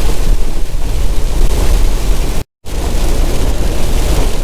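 Inside a semi truck's cab while it drives in rain: a steady low engine and road rumble under a hiss of rain and wind. The sound cuts out completely for a moment a little past halfway.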